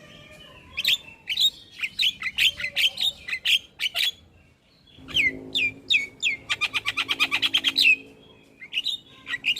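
Javan myna singing: a string of sharp, downward-sliding whistled notes, a short pause about halfway, then a fast rattling run of notes that stops near the end.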